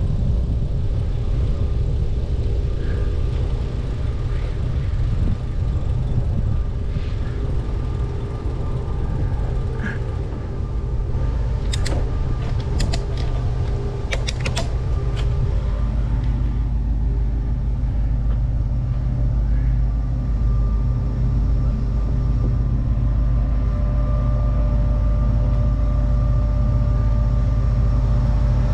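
Steady low rumble of a train, with engine tones that steady out past the middle, and a short cluster of sharp clicks about twelve to fifteen seconds in.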